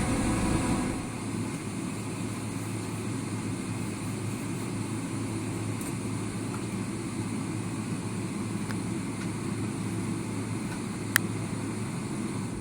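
Steady low rumble and air hiss inside the cabin of a Boeing 777-300ER on the ground just after landing, easing slightly about a second in, with one sharp click about eleven seconds in.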